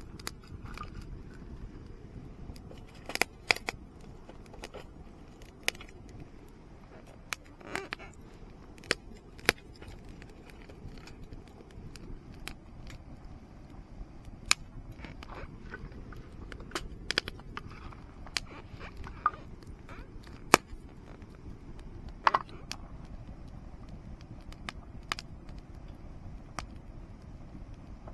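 Wood fire burning in a campfire pit, with sharp, irregular pops and crackles over a low steady rush.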